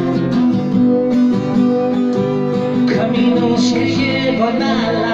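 Acoustic guitar strumming chords in a song. A wavering melody line comes in over the guitar about three seconds in.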